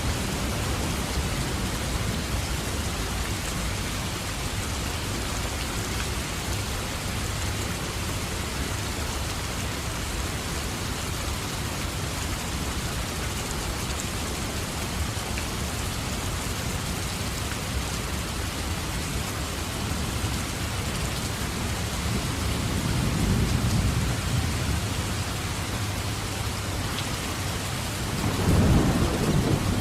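Steady heavy rain with a low rumble of thunder swelling about three-quarters of the way through and a louder roll of thunder near the end.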